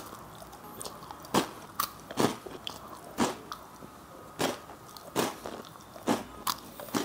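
Close-miked chewing of a mouthful: wet lip smacks and mouth clicks every half second to a second.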